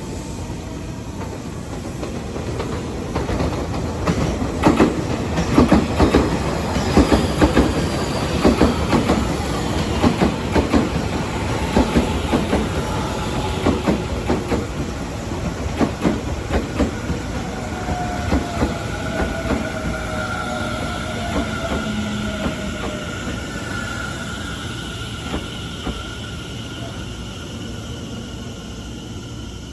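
Tobu 50090-series electric multiple-unit train running along the platform, its wheels clacking rhythmically over rail joints. High squealing tones then come in and slide slightly downward in pitch as the clacking dies away.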